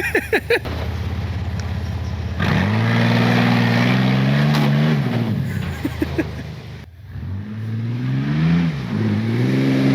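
GMC Jimmy 4x4's engine revving in three pulls, each rising and held before dropping back, with a short lull between the second and third.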